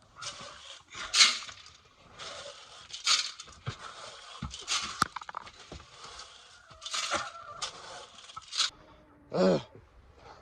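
Irregular scraping and crunching noises, with one short pitched call, likely a goat bleat, about nine seconds in.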